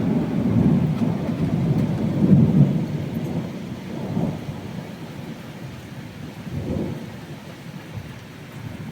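Thunder rumbling over rain in a spring thunderstorm. The rumble is loudest in the first three seconds, then dies away, with smaller rolls about four and seven seconds in.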